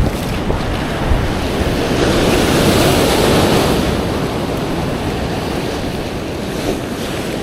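Ocean swell surging and washing over a rock ledge, building to a peak about three seconds in and then easing, with wind buffeting the microphone.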